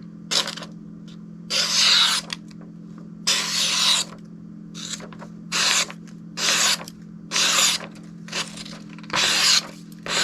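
The freshly sharpened and polished Cold Steel Mayhem knife slicing through paper, again and again: a series of short hissing cuts, about eight or nine in all. The cuts test the sharpness of the newly reprofiled edge. A steady low hum runs underneath.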